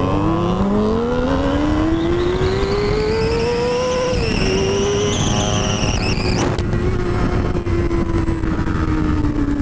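2006 Honda CBR600RR's inline-four engine pulling hard through a gear with its pitch rising steadily, then shifting up about four seconds in and running on with slowly falling revs. Wind rushes over the helmet microphone throughout, and there is a brief sharp click partway through.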